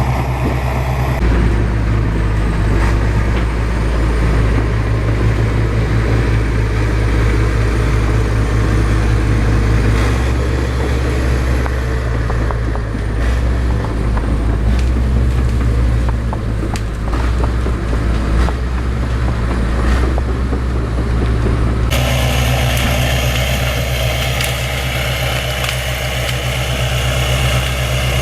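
Bulldozer's diesel engine running steadily under heavy work, its deep tone shifting abruptly a few times.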